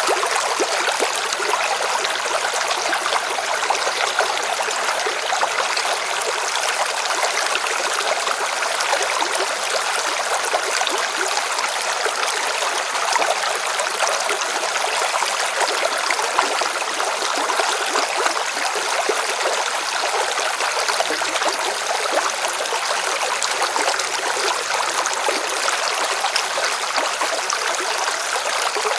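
River water splashing and rushing over rocks, a steady continuous babble.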